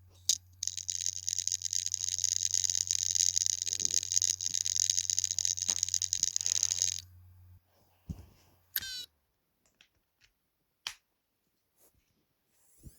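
Hard disk drive making an abnormal noise: a low steady hum under a loud, harsh buzz of very rapid clicking for about six seconds. Both stop around seven seconds in, followed by a few short isolated clicks and chirps.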